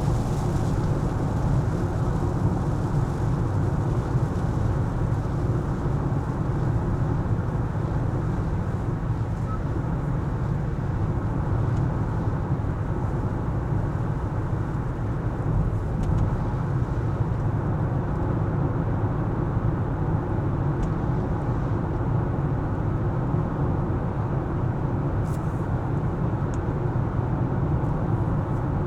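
A car driving on city roads: a steady low rumble of engine and road noise that holds an even level throughout.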